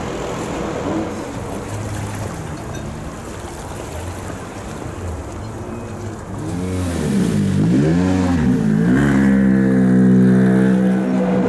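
A 2017 World Rally Car's 1.6-litre turbocharged four-cylinder engine on a special stage, faint and distant at first. About halfway through it comes in close and loud, the engine note rising and falling several times with gear changes and throttle lifts, then holding a high, steady rev.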